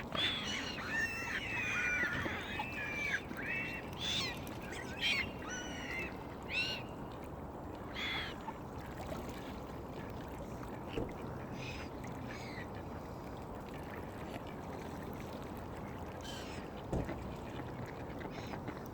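Waterbirds calling: a dense flurry of short, arching calls in the first few seconds, thinning to scattered calls by about eight seconds in, over a steady background noise. A single knock about seventeen seconds in.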